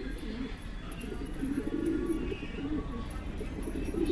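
Racing pigeons cooing in the loft, several birds calling over one another in low, rolling coos.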